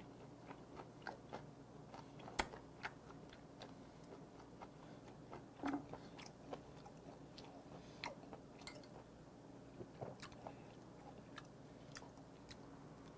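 A person chewing a bite of grilled steak wrapped with blanched eomnamu shoots close to the microphone: faint wet mouth clicks and smacks, with a sharper click about two and a half seconds in and a short louder knock near the middle.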